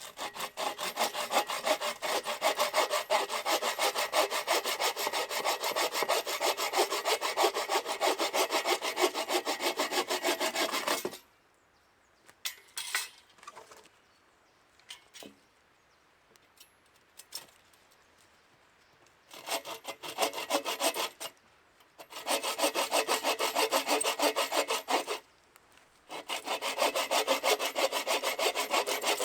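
Hand saw cutting wood in quick, even back-and-forth strokes. One long run of sawing lasts about eleven seconds, then comes a pause with a few small knocks, then three shorter runs of sawing.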